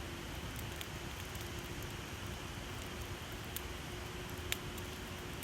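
Wood campfire burning with a steady hiss and scattered sharp crackles and pops, one louder pop a little after four and a half seconds in.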